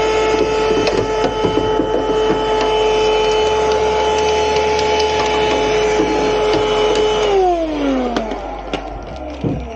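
Vacuum cleaner running with a steady whine and scattered clicks, switched off about seven seconds in so that its motor winds down, falling in pitch.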